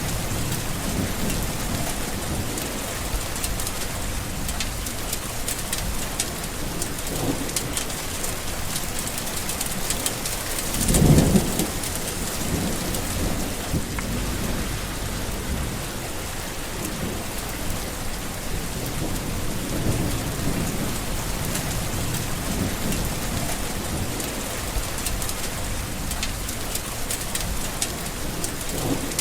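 Steady heavy rain with rolls of thunder; the loudest clap comes about eleven seconds in, with softer rumbles around it.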